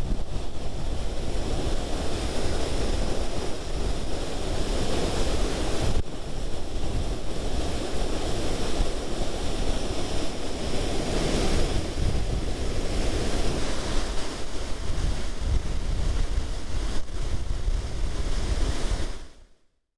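Steady rush of falling water from High Force waterfall on the River Tees, with wind buffeting the microphone. The sound fades out just before the end.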